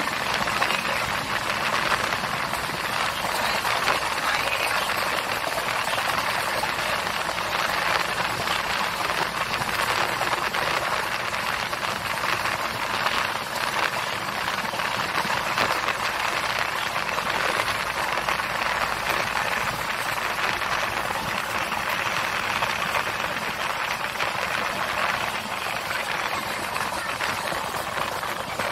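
Steady running noise of a passenger train heard from inside the coach: wheels on the rails and the carriage rattling and vibrating at an even pace.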